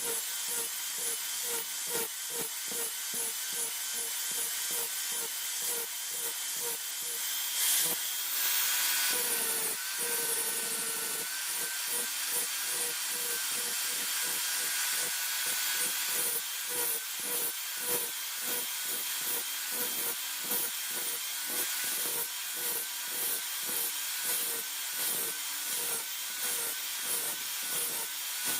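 A hand file or saw worked back and forth in steady repeated strokes, about two to three a second, with a louder stretch of rubbing about a third of the way in.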